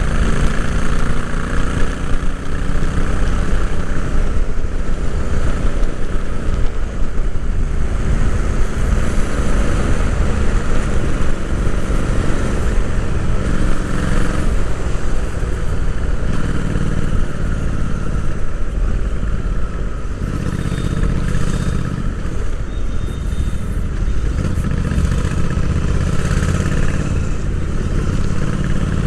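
Royal Enfield Interceptor 650's 648 cc parallel-twin engine running under way, heard from onboard. Its note shifts up and down in pitch over the run.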